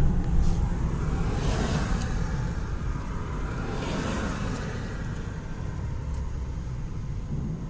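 Car driving, a steady low engine and road rumble, with two brief rushing swells, about one and a half and four seconds in.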